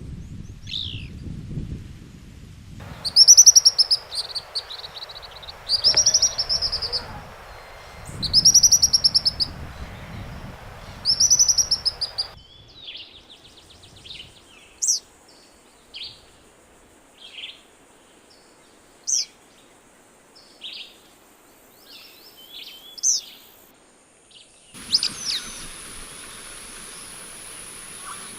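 Wild birds singing and calling: four loud, arching high song phrases about two and a half seconds apart, then a run of short, sharp high notes roughly once a second, and a different set of calls near the end.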